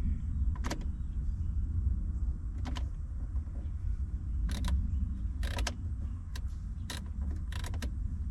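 A Jeep's dash light dimmer control being worked back and forth, giving a series of sharp plastic clicks at uneven intervals over a steady low rumble. The dimmer is not dimming the dash lights, which the owner suspects is a bad control lever.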